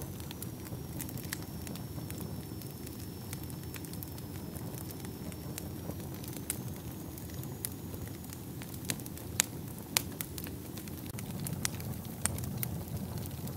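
Fire burning in a fireplace: a steady low rush of flame with frequent sharp crackles and pops, two louder pops a little past the middle.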